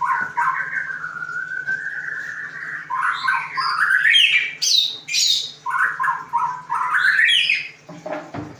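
Murai songbird singing a continuous, varied song of quick repeated notes, slurred whistles and rising sweeps, which stops shortly before the end.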